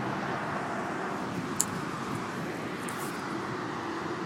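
Steady outdoor background noise, a low even rumble, with one short sharp click about a second and a half in.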